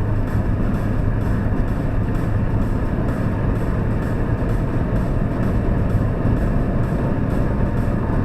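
Opel Astra G 2.0 DTi four-cylinder turbodiesel car running at steady revs with road noise, a constant low hum with no revving.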